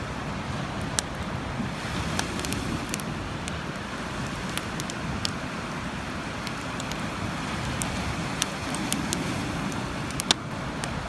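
Wood bonfire crackling, with sharp irregular pops over a steady background rush.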